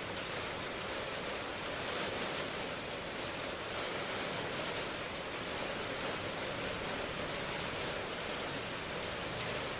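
Steady rain ambience: an even hiss of falling rain with faint soft patters and no distinct drops or thunder.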